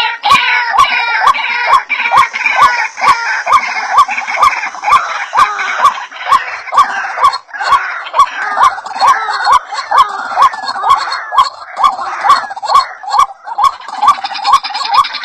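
White-breasted waterhen (ruak-ruak) calling: a loud chorus of repeated harsh notes at about two or three a second, overlapping. This is a lure recording meant to draw the birds in.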